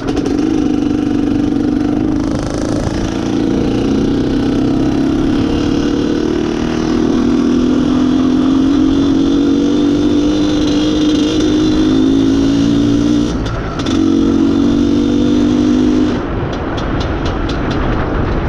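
Izh Planeta Sport's single-cylinder two-stroke engine running under throttle on the move, with a brief dip about three-quarters of the way through and easing off near the end. The owner says the mixture goes lean as soon as the throttle is opened.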